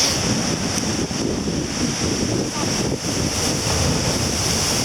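Waves breaking on a beach at high tide, with strong wind buffeting the microphone as a steady loud rush.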